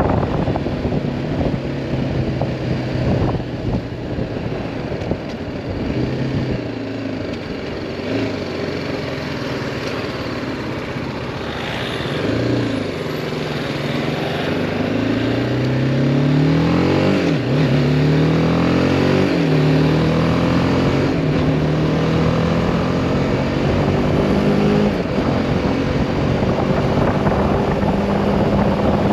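BMW G310R's single-cylinder engine pulling through the gears under a wind-buffeted helmet-cam microphone: its pitch climbs, drops sharply at shifts about seventeen and nineteen seconds in, then holds steady.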